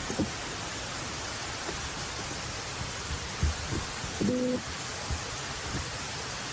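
Steady even hiss of outdoor ambience with a few soft knocks and one short, low hooting tone about four seconds in.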